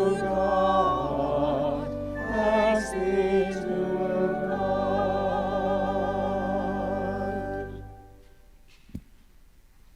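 Sung church music: voices singing with vibrato over a low sustained accompaniment, ending on a held chord that cuts off about eight seconds in. A single soft knock follows about a second later.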